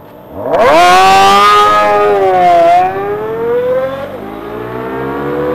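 Kawasaki ZX25R's 250 cc inline-four revving up hard under acceleration, its pitch climbing steeply. The pitch dips at gear changes about two and a half and four seconds in, and the engine sounds quieter after the first change.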